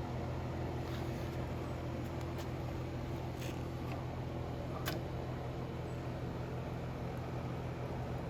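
An electric melting furnace running with a steady mains hum and fan noise. A few light clicks come over it in the first five seconds.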